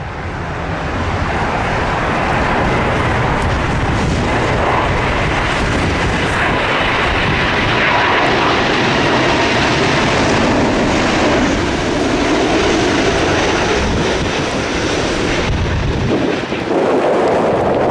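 Airliner jet engines on approach to land, a loud steady roar that swells in at the start; the deepest rumble drops away near the end.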